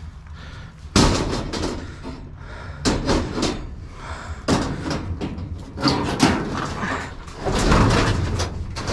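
Irregular bangs, knocks and clatters of scrap being handled, several separate hits with a longer run of clatter near the end.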